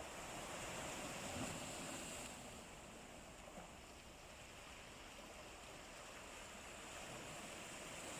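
Sea waves washing on the shore, a steady rushing surf that swells slightly, eases off and then builds again.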